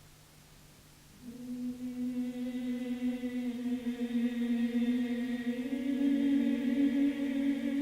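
Sung chant: voices come in about a second in on one long held note, then step up to a slightly higher note near the end.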